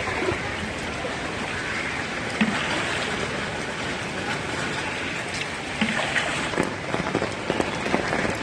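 Steady hiss of heavy rain and water in a flooded street, with scattered short splashes in the second half.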